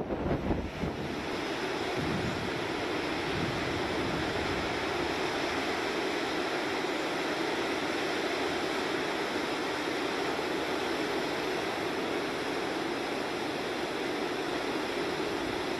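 Steady rushing of a river in flood after a typhoon: fast, high water running past. Wind buffets the microphone for about the first second.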